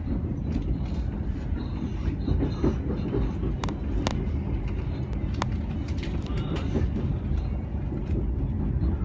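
A passenger train running along the track, heard from inside: a steady low rumble of wheels on rails, with a few sharp clicks around the middle.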